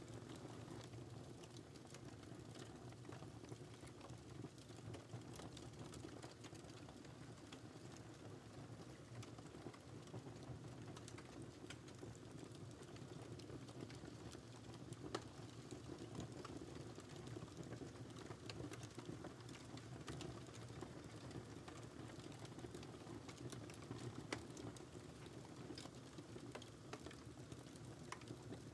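Wood fire crackling quietly: irregular small pops and snaps over a low, steady rumble of the flames, with a couple of sharper pops standing out about halfway through and near the end.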